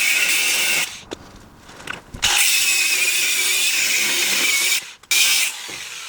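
Cordless angle grinder with a nearly worn-out cutting disc cutting through rusty steel chassis metal in three runs. It stops about a second in, cuts again from about two seconds to nearly five, and cuts briefly once more before winding down.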